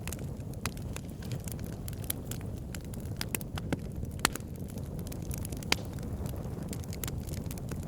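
Campfire crackling, with irregular sharp pops and snaps over a steady low rumble; two louder pops come around the middle.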